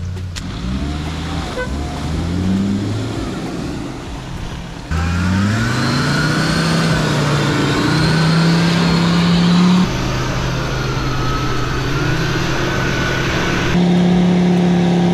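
Off-road 4x4 SUV engine revving, its pitch climbing and then holding high, with a higher wavering whine over it through the middle part. The sound changes abruptly three times, as separate driving clips are cut together.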